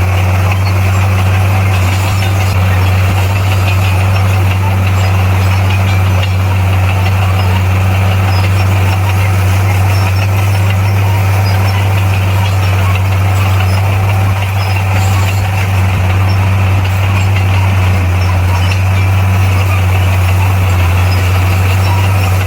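Heavy diesel engine of a bulldozer running steadily: a constant, loud low drone with no change in pitch.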